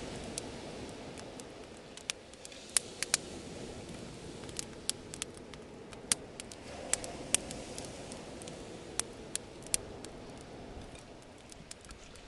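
Bonfire crackling: irregular sharp pops and snaps, a dozen or so loud ones scattered through, over a low steady rush of noise.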